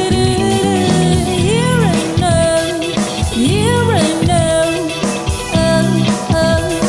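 Funk-rock band playing live: drums and bass under a lead melody that swoops up and down in pitch every couple of seconds.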